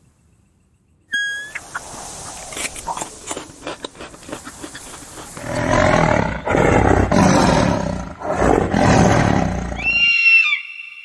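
A big cat roaring and growling in several loud bursts, after a quieter rough stretch. A short high call comes about a second in and another near the end.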